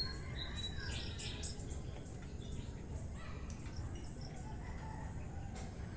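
Wind rumbling on the microphone, with faint, scattered bird chirps and insects over it.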